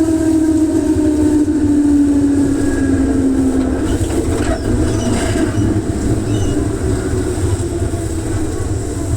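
Electric train's traction motor whine falling steadily in pitch as the train slows, fading out about three and a half seconds in and leaving the continuous low rumble of the wheels on the rails.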